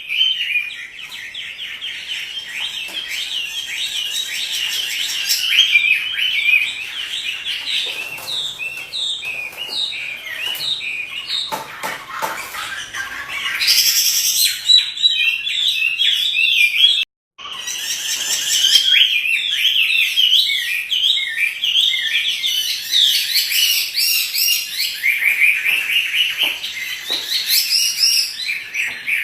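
Chinese hwamei (Hwamei, Garrulax canorus) singing continuously: a long, loud run of rapid, varied whistled phrases. The song is broken by a split-second gap about seventeen seconds in.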